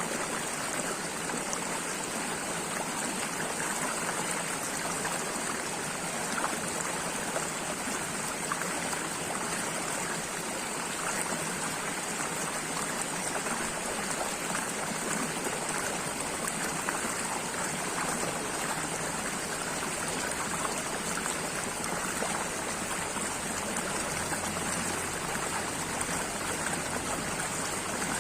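Flowing water running steadily and without break, an even rush of noise.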